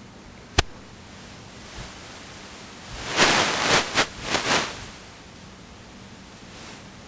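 A single sharp click about half a second in, then rustling in several quick strokes lasting nearly two seconds, over a steady low hiss.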